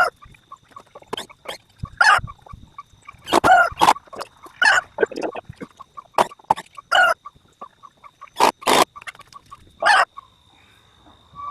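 Chickens clucking and squawking in a run of short, irregularly spaced calls.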